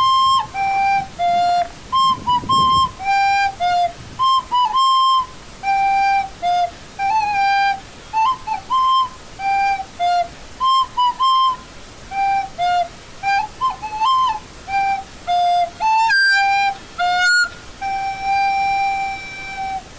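A solo flute-like wind instrument playing a simple tune of short, separate notes, ending on a longer held note.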